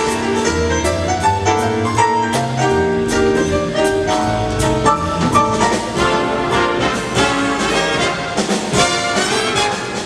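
Big band playing a jazz tune, the brass section of trumpets and trombones playing sustained chords and lines over drums and cymbals.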